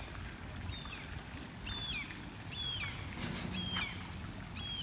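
A bird repeating a short, high call that falls in pitch, about once a second, over a low steady outdoor rumble.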